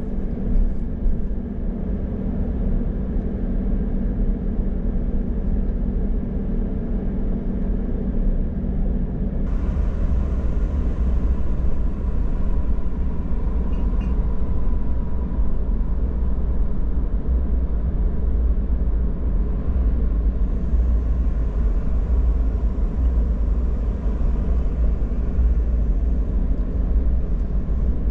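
Steady low road rumble and tyre noise of a car driving along the highway, with a little more hiss entering about a third of the way in.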